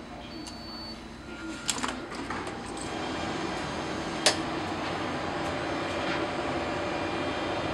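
Steady machinery hum from the jet bridge's air-conditioning and power equipment, swelling about two seconds in and then holding, with a sharp click about two seconds in and another about four seconds in.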